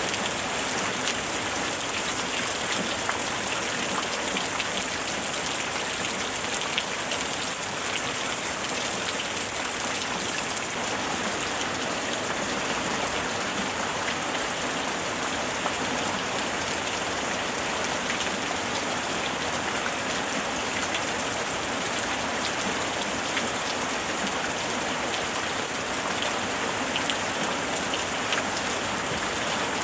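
Steady rain falling, with a dense patter of raindrops hitting surfaces.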